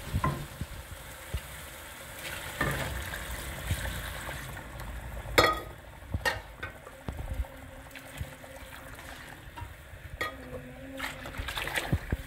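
Beef trotters frying in oil and masala in a steel pot as bone broth (yakhni) is poured in from a steel cup, sizzling and bubbling steadily. Scattered metal clinks and knocks run through it, with one sharp clank about five seconds in as the loudest.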